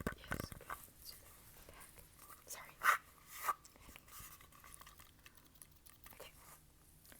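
Close-miked ASMR trigger sounds: quick crackly clicks and taps, dense at first, then sparser, with two louder crackles about three seconds in.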